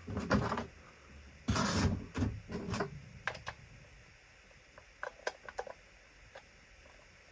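Handling noise of a 9-volt battery being fitted into a vintage RC transmitter: a string of sharp plastic clicks and short rustles. They are busiest in the first three seconds, with a few fainter clicks after.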